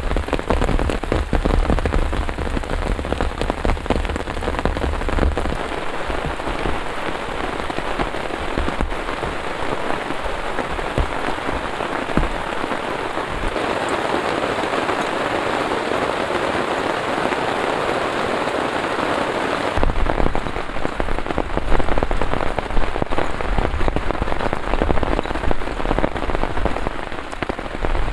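Heavy rain falling steadily, with many separate drops striking a surface close to the microphone.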